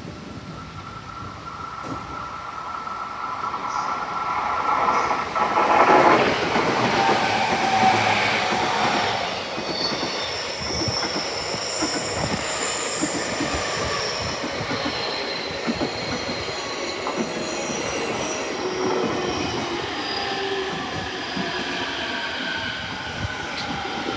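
Electric train running past a station platform, its wheels rumbling on the rails with high, held squeals from the wheels or brakes. The sound builds to its loudest about six seconds in, then carries on steadily.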